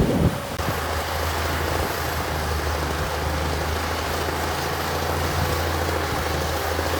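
Heavy diesel engine of earthmoving equipment running at a steady speed, a low even drone. A brief low thump comes right at the start.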